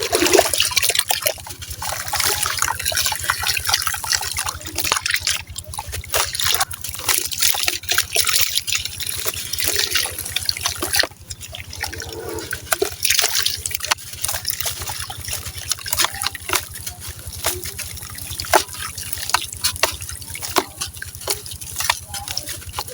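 Dry sand cement crumbling into water: dense, continuous gritty crackling and fizzing with trickling, over a steady low hum.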